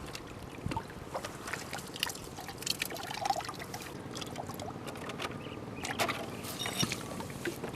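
Water trickling and splashing, with many scattered clicks and knocks.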